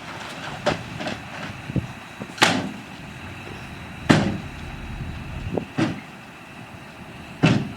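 Heavy earthmoving machinery running steadily, with about eight loud, irregular metallic bangs and clanks; the loudest come about two and a half seconds in and just after four seconds.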